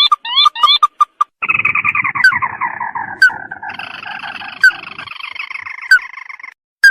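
Recorded call of the sintar crake (tikusan mata merah), played as a trapping lure. For about a second there are quick repeated upswept notes, then a dense chattering series of overlapping calls that slide downward, with a low rumble beneath and a few sharp clicks.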